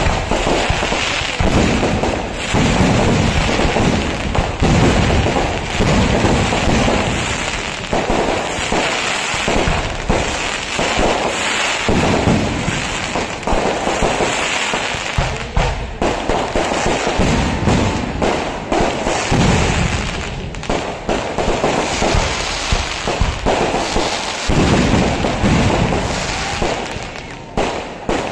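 Traditional Kerala fireworks (vedikkettu) going off in a dense, near-continuous barrage of loud overlapping explosions and cracks, with a few short dips in between.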